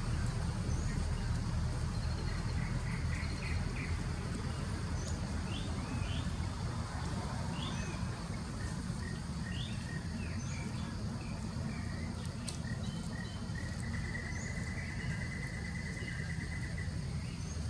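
Outdoor ambience: scattered short, high bird chirps, and a rapid trill of about three seconds near the end, over a steady low rumble.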